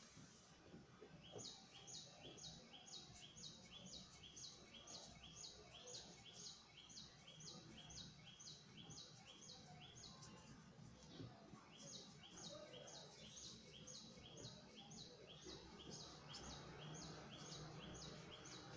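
A bird calling faintly in a long, even series of short high chirps, about three a second, breaking off for a second or so midway before starting again.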